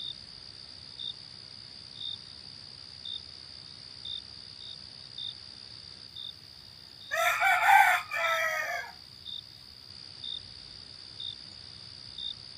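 A rooster crows once, about seven seconds in. Under it runs a steady high insect whine with short chirps about once a second.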